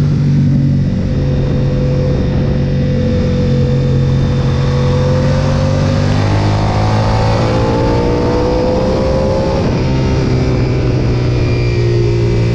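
Sportbike engine running at high revs under a constant rushing noise. Its pitch climbs from about six seconds in as the bike accelerates out of a turn, then drops abruptly near ten seconds as it shifts up, and holds steady.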